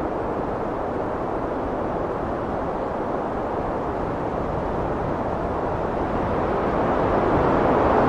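Heavy wind blowing as a steady low rushing, swelling louder near the end in a gust.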